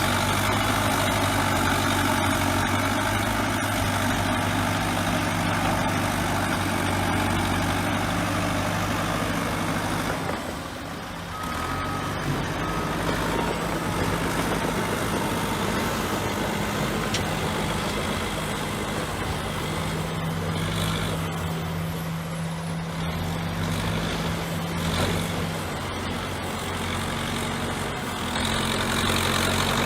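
Bulldozer diesel engine running steadily, its note shifting about ten seconds in. Two short high beeps sound a second apart just after the shift.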